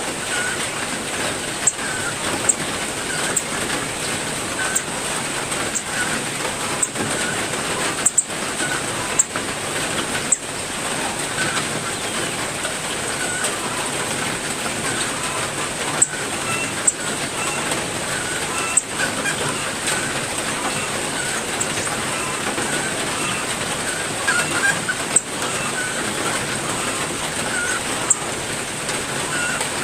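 Heavy rain falling steadily, with occasional sharp ticks of drops striking, while small caged songbirds give short, scattered chirps.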